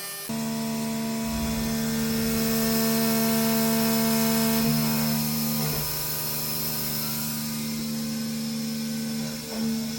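CNC milling machine spindle cutting a billet aluminum block, a steady whine that shifts in pitch about halfway through and again near the end.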